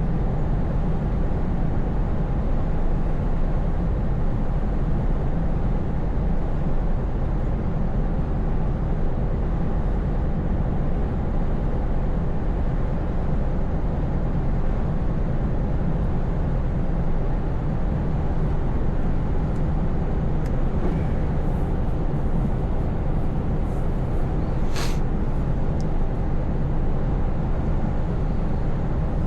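Scania V8 truck engine running steadily at cruise with road noise, its low drone even throughout. A brief sharp high hiss or click cuts in once about 25 seconds in.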